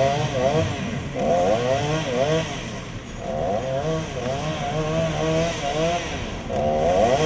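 Chainsaw cutting firewood, its engine pitch repeatedly sagging under load and climbing again.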